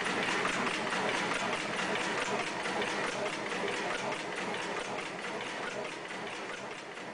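Ship's diesel engine running with an even, rapidly repeating mechanical clatter, slowly getting quieter toward the end.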